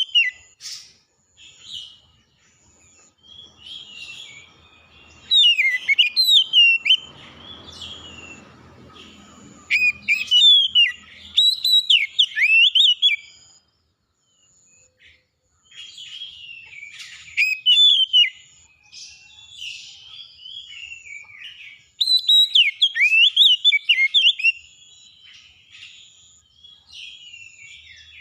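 A songbird singing in loud bursts of quick, varied whistles and warbles a few seconds long, with short pauses between. A faint high note repeats evenly behind the song.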